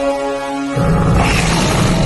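Film soundtrack music with held notes, cut off about three-quarters of a second in by a sudden loud, rumbling noise that fills the sound and carries on.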